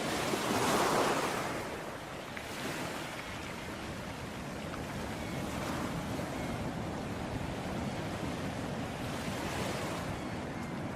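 Ocean waves washing on a shore, with one louder wave breaking about a second in, then a steady wash.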